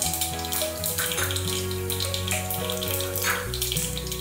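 Mustard and cumin seeds sizzling and crackling in hot oil, with a steady hiss and many small pops, over background music with held notes and a bass line.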